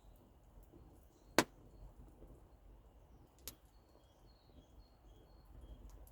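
Campfire wood popping: two sharp cracks, a loud one about a second and a half in and a fainter one about two seconds later, over faint high bird chirps.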